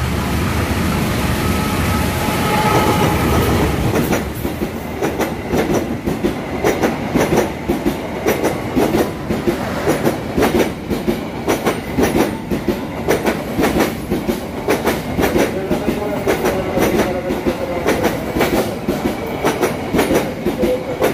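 A train running through the station: a heavy low rumble for the first few seconds, then the carriages' wheels clacking steadily over the rail joints, about two clacks a second.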